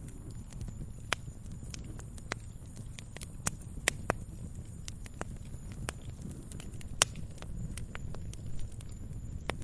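Campfire crackling: burning wood gives off irregular sharp snaps and pops, a few louder ones around four seconds in and the loudest about seven seconds in, over a steady low rumble of the flames.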